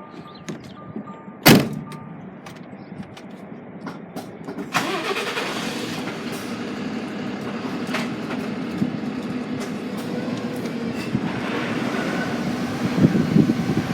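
A sharp bang about a second and a half in, then about five seconds in a truck's diesel engine starts and settles into a steady run.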